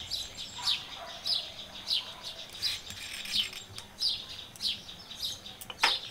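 A bird calling steadily with a sharp, high note that falls in pitch, repeated evenly about one and a half times a second. There is a sharp click near the end.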